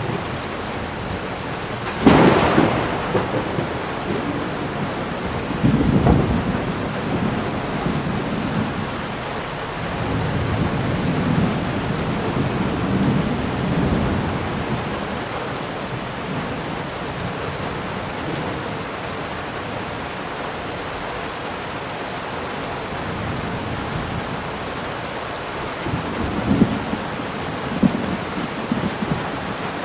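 Hurricane storm noise: a steady hiss of heavy rain and wind, broken by loud low booms about two seconds in and again around six seconds, a longer rumble in the middle, and a cluster of further booms near the end.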